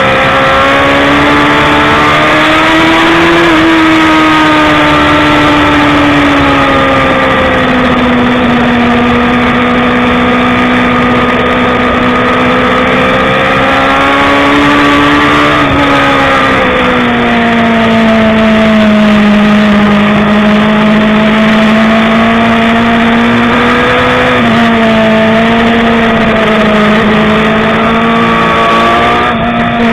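BMW S1000RR inline-four sport bike engine running hard at high revs under racing load. The pitch rises and falls slowly, dips a few times, and drops sharply near the end.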